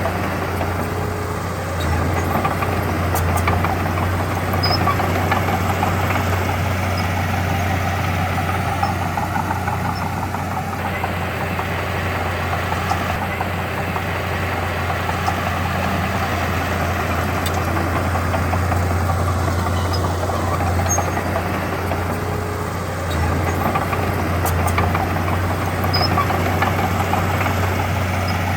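Diesel engine of heavy earthmoving machinery running steadily with a low drone that swells a little now and then.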